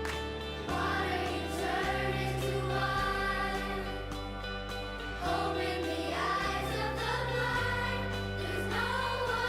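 A children's worship song: voices singing together over a steady bass accompaniment, with a new sung phrase coming in about a second in and another about five seconds in.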